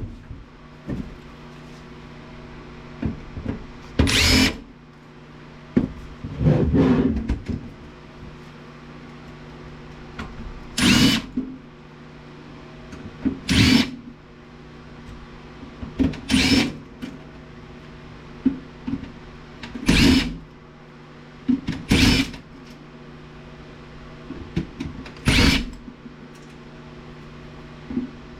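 Cordless drill-driver spinning out screws from the DVD player's steel case in about seven short runs of half a second or so, a few seconds apart, with small clicks and handling noises between them.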